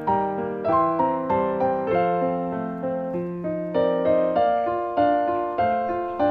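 Background music: a gentle solo piano piece, notes struck in a steady, unhurried rhythm.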